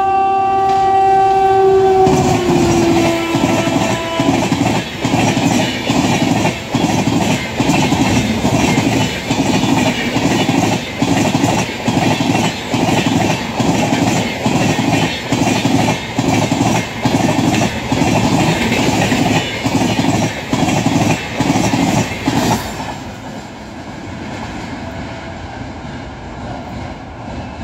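Locomotive horn sounding as an express passenger train approaches at about 110 km/h; the chord drops in pitch as the locomotive passes about two seconds in. The coaches then rush past with a fast, steady rhythmic clatter of wheels on the track for about twenty seconds. The clatter ends abruptly as the last coach goes by, leaving a fainter fading rumble.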